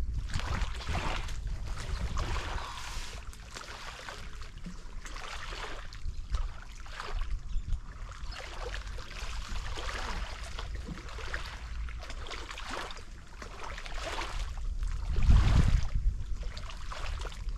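Water lapping and sloshing at the shore, an uneven splashing hiss, with a low wind rumble on the microphone that swells briefly about fifteen seconds in.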